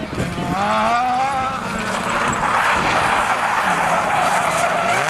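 Rally car engine revving hard, its pitch climbing as the car accelerates, then a few seconds of loud rushing noise as it goes by, with tyre skidding.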